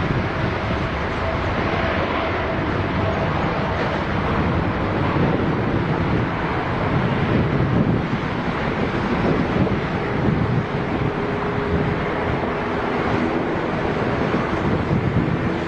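Steady jet noise from a Boeing 787 airliner, with wind buffeting the microphone. A faint steady tone rides on the noise near the start and again later.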